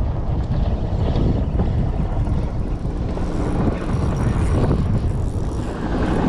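Heavy wind buffeting the microphone as a loud, steady low rumble, with a motorboat's engine droning faintly underneath from about halfway in.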